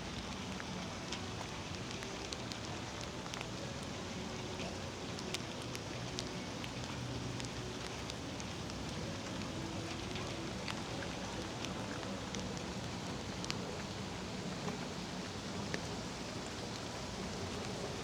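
Steady rain falling, with scattered sharp ticks of individual drops hitting nearby surfaces.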